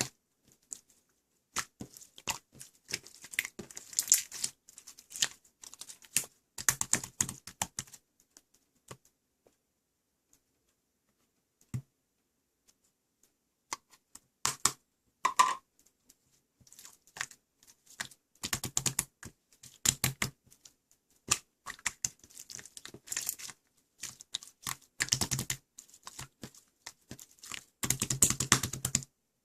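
Irregular bursts of rapid clicking and tapping, with a quiet stretch of several seconds near the middle.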